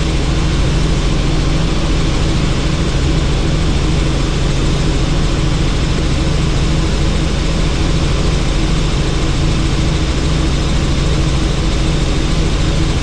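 Helicopter in flight heard from inside the cabin: loud, steady engine and rotor noise with a constant low hum and no change in pitch.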